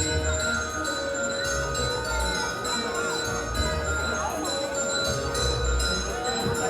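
Christmas show music full of jingle bells and chimes, with several deep thuds of fireworks bursting underneath.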